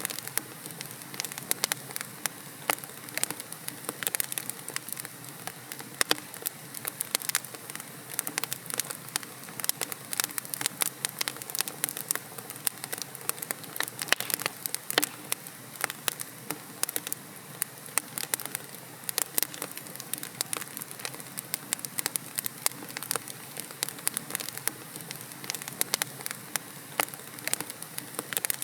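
Wood logs burning in a fireplace, crackling with many sharp irregular pops over a steady soft hiss.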